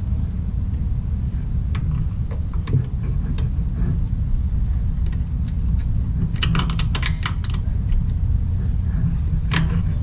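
Metal hand tools clinking and jangling during mower repair work. A few light clicks come first, then a quick flurry of clinks about six and a half seconds in and one more sharp clink near the end, all over a steady low rumble.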